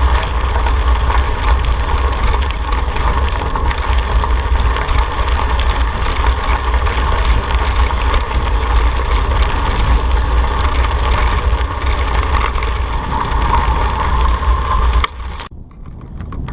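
Steady rush of wind buffeting the microphone and tyre-on-road noise from a moving bicycle, with a heavy low rumble. It drops off suddenly about fifteen seconds in, leaving much quieter road noise.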